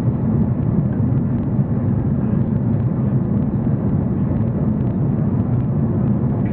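Steady cabin drone of an Airbus A340-300 in flight during its descent: engine and airflow noise heard inside the passenger cabin, a deep, even rumble.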